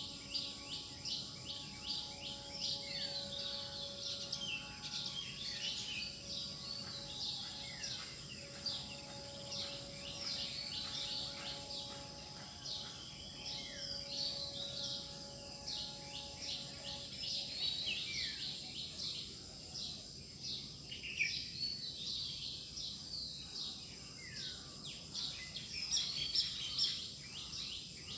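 Dawn chorus of many small birds chirping and twittering over one another, over a steady background hiss. A faint steady hum runs underneath and fades out a little past the middle.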